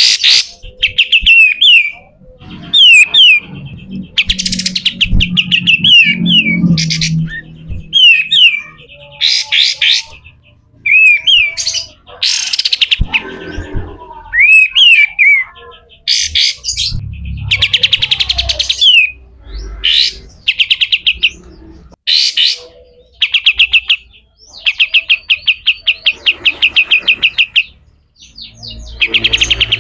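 White-shouldered triller (kapas tembak) singing in harsh, rapid phrases: bursts of fast chattering trills and sharp down-slurred notes, separated by short pauses.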